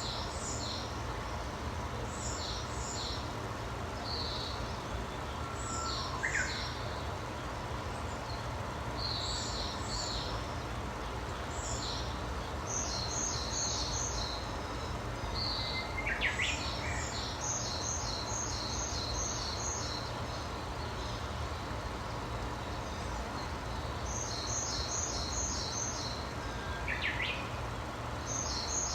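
Wild songbirds chirping and singing: short, high notes keep recurring, some in quick runs of five or six notes, with a lower sweeping call three times. A steady low background hum runs beneath them.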